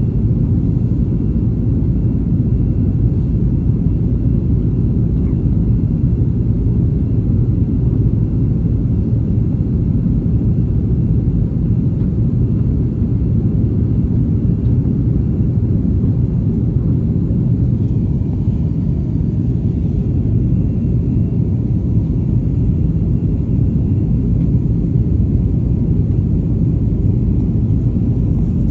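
Airliner cabin noise: a steady low rumble of engines and airflow heard from inside the passenger cabin, holding an even level throughout.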